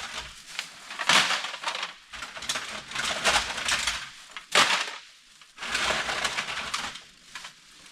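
Empty aluminum drink cans clattering and crinkling in several bursts as they are handled and gathered up, with one sharp clank a little after the middle.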